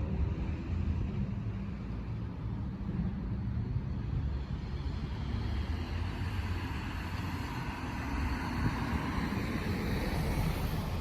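Road traffic: a steady low rumble, with a passing vehicle's tyre noise swelling up in the second half.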